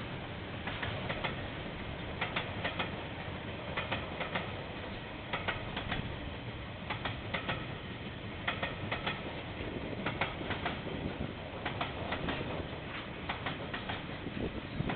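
Train wagons rolling past, their wheels clicking over rail joints in clusters that repeat about every second and a half.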